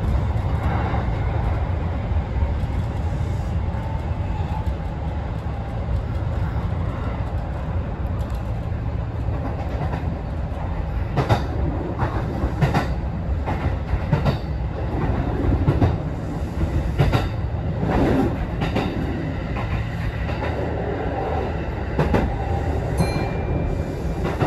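Kintetsu express electric train running along the line, heard from inside its front car: a steady low rumble with the wheels clacking over rail joints. The clacks come at irregular intervals, mostly in the second half.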